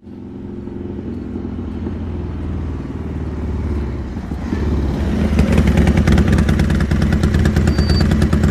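Motorcycle engine running steadily, then growing louder from about four and a half seconds in as it revs up, with a rapid pulsing beat to its note.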